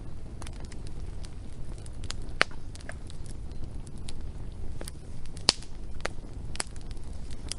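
Wood fire crackling: irregular sharp pops and snaps, two of them louder, over a steady low rumble of burning flames.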